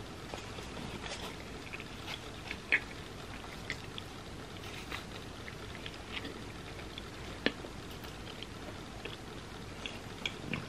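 Close-miked chewing of pizza crust: small wet mouth clicks and crunches scattered throughout, with two louder crunches about three and seven and a half seconds in.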